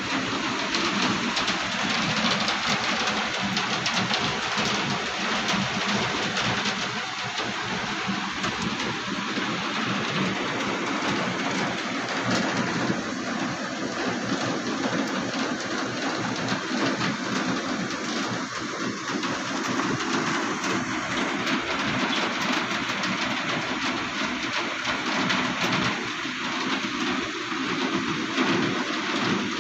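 Steady rain falling: a continuous hiss full of fine pattering drops, with a faint low hum underneath.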